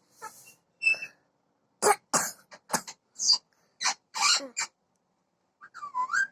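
Pet parrot giving a run of about seven short, rasping calls, then a bending whistled note near the end.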